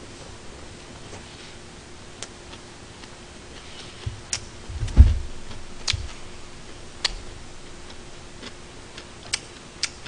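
A man chewing a mouthful of gimbap: scattered sharp clicks from the mouth every second or so, with one louder low thump about five seconds in.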